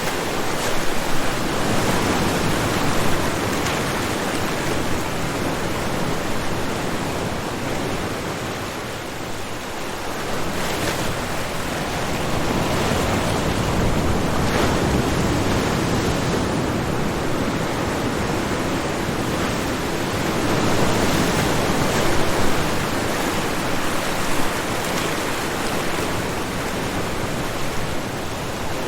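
Ocean waves breaking on a shore: a steady wash of surf that swells and eases, with a softer lull about nine seconds in.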